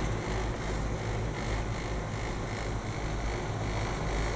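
Rooftop air-conditioning unit running: a steady low hum with an even whir from its fan.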